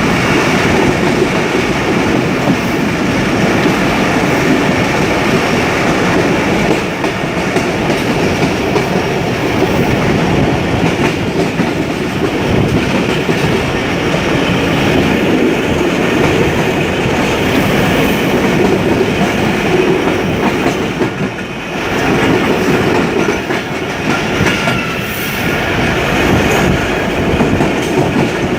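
Passenger train running along the track, its coach wheels clattering over the rail joints in a continuous clickety-clack, with a brief dip in loudness about three-quarters of the way through.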